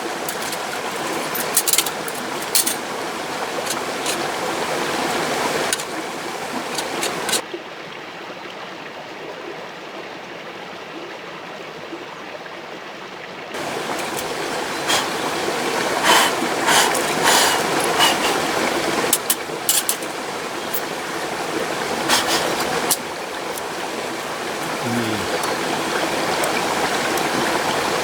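Mountain stream rushing steadily, with scattered sharp clicks and knocks over it. For several seconds mid-way the stream sound turns quieter and duller.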